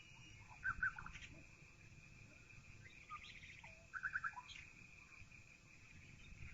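Birdsong: two short bursts of quick repeated notes, about a second in and about four seconds in, with a fainter higher trill between them, over a steady high whine and a low background rumble.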